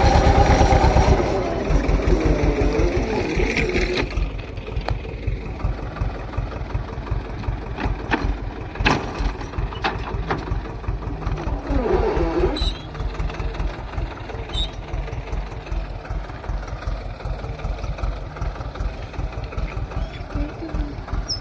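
Swaraj 724 XM Orchard tractor's two-cylinder diesel engine idling with a steady, even beat, with a few sharp clicks partway through.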